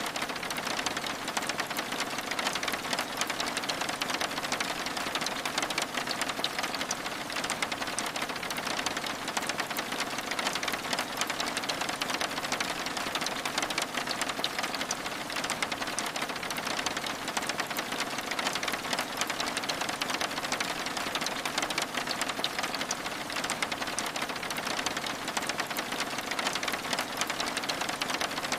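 Steady rain on window glass: an even hiss thick with tiny, quick drop ticks that never lets up.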